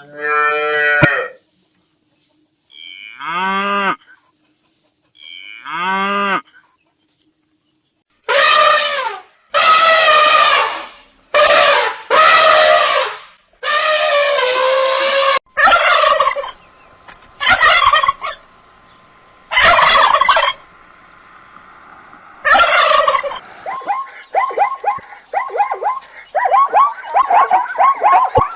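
A series of separate animal calls cut one after another: two drawn-out calls falling in pitch, then four loud long calls, then four shorter calls, and near the end a fast run of chattering calls.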